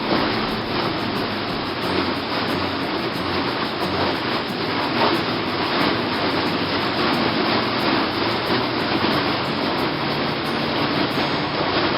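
Boat engine running steadily under way, under a steady rushing noise.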